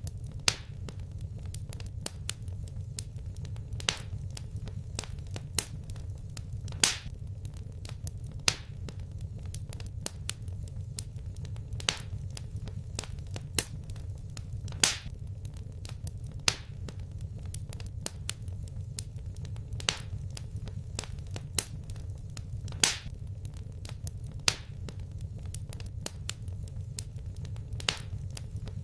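Wood fire in a fireplace crackling, with sharp irregular pops every second or two over a steady low rumble.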